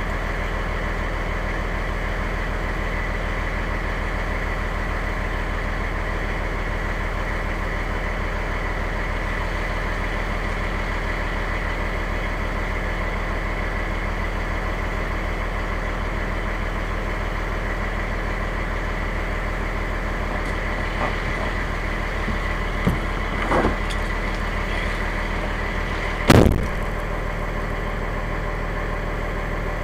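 Fire engine's engine idling steadily, heard from inside the cab, with one sharp thump about 26 seconds in.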